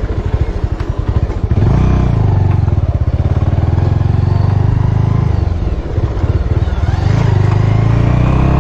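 Motorcycle engine running on the move. The throttle opens about a second and a half in, eases briefly near six seconds, and picks up again near the end.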